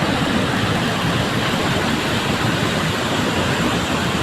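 Loud, steady rushing of floodwater in an overflowing wadi, an even roar with no rhythm. It starts abruptly at the beginning.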